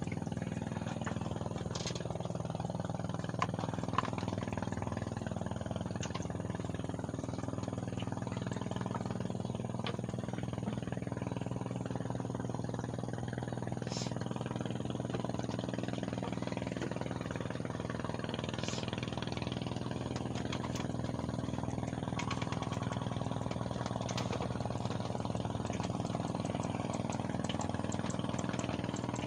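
An engine running steadily at an even pitch, with a few faint clicks.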